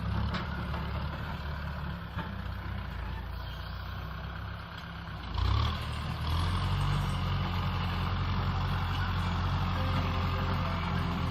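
Kubota M6040 SU tractor's diesel engine running under way, with a brief louder surge about five and a half seconds in, after which it settles into a steadier, slightly louder drone.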